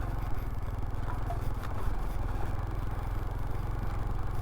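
Honda CT125's single-cylinder engine running steadily at low speed over bumpy ground, with a few faint clicks and rattles.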